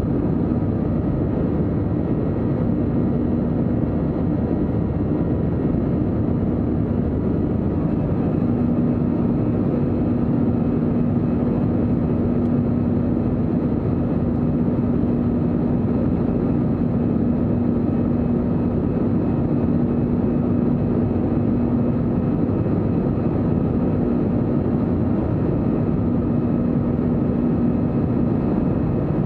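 Airbus A321-200 jet engine and airflow noise heard from inside the passenger cabin: a steady, even roar with a constant low hum.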